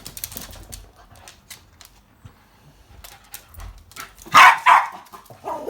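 A dog barking, two loud short barks about four seconds in and another right at the end, with faint light clicks earlier on.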